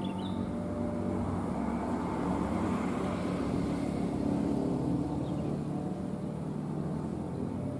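Diesel train running, a steady engine hum under a rushing wheel-and-rail noise that swells around the middle and eases off again.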